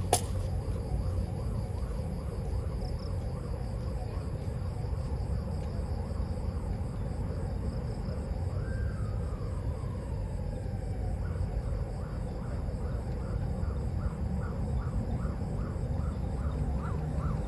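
Insects trilling in a steady, high, pulsing drone over a low steady rumble. A single falling call comes about halfway through, and a quick run of repeated chirps starts near the end.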